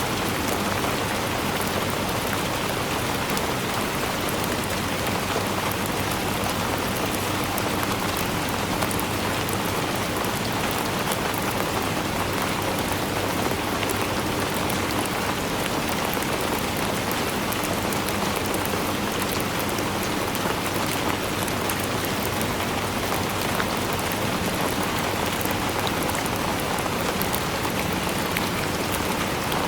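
Steady rainfall, a dense even hiss of raindrops with fine patter, unchanging throughout.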